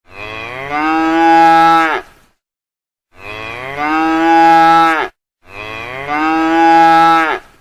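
A cow mooing: three long moos of about two seconds each. Each one starts softer, swells louder and drops in pitch at the end.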